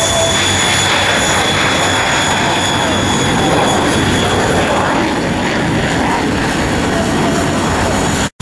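Several vintage radial-engine propeller planes running at full takeoff power, a loud steady drone. A high whine in the mix fades out about halfway through. The sound cuts out for an instant near the end.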